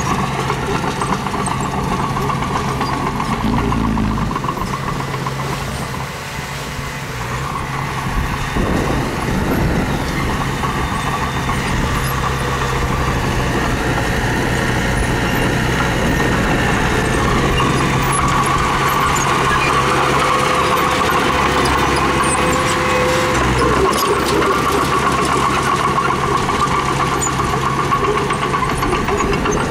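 Diesel engine of heavy earthmoving machinery running steadily, dipping briefly in loudness about six seconds in and changing pitch as the load varies.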